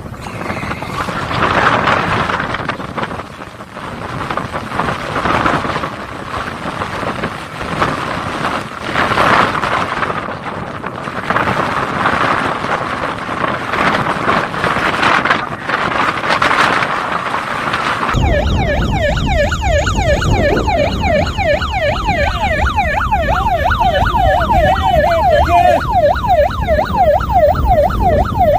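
Rushing wind and water noise for about the first two-thirds. Then a sudden cut to an emergency vehicle siren in a fast yelp, rising and falling several times a second, over a low engine rumble.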